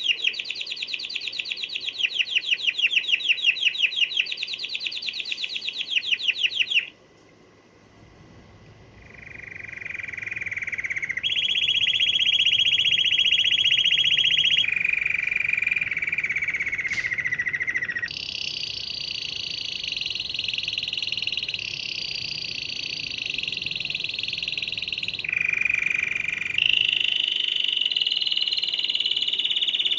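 Canary singing a long song of rapid, high trills, moving from one trill pattern to the next every few seconds, with a short pause about seven seconds in.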